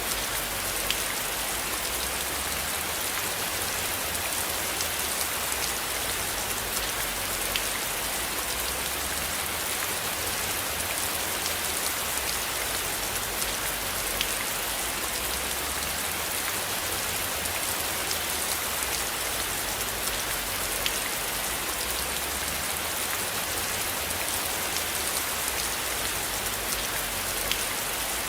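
Steady rain falling as an even hiss, with single drops ticking here and there. A faint low rumble swells and fades slowly underneath.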